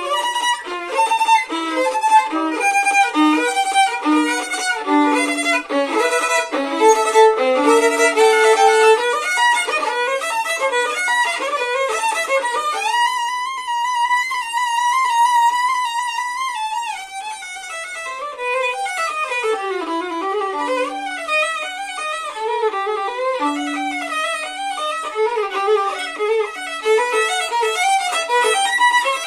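Solo violin playing a fast stream of short notes. About halfway through it holds one long note with vibrato, then runs down the scale and goes back into quick notes.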